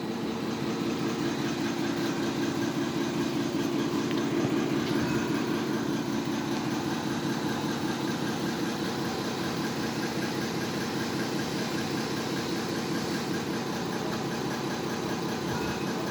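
A machine running steadily with a dense, fast rattling hum.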